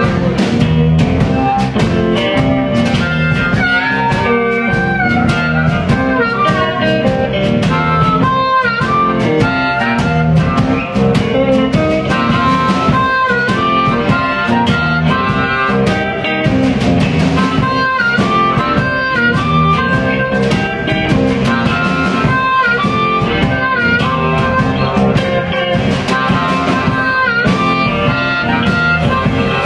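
Band playing a blues-style instrumental passage, with guitar and drum kit and no singing.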